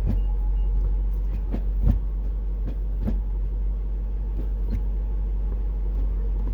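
2010 Dodge Challenger SRT-8's 6.1-litre HEMI V8 idling with a steady low rumble. The six-speed Tremec manual shifter is worked through the gears, making about seven short clicks and clunks, the loudest about two seconds in.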